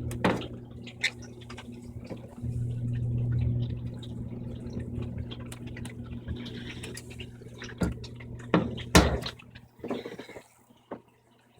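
Brastemp 15 kg washing machine agitating a load in rinse water: the motor hums in pulses, with water sloshing and several sharp knocks and splashes. It goes quiet near the end.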